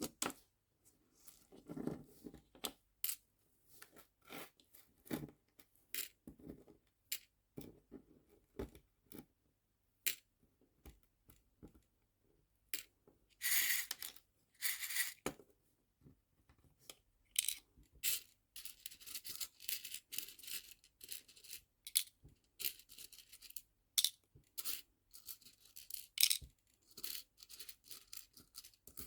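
Small nail-art charms clicking, tapping and rattling against plastic storage boxes and each other as they are sorted. A packaging bag crinkles about halfway through, and in the second half the clicking becomes a dense rattle of many small pieces.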